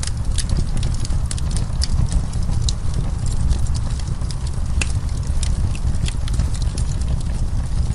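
Wood fire in a fireplace crackling, with frequent sharp, irregular pops of burning wood over a steady low rumble.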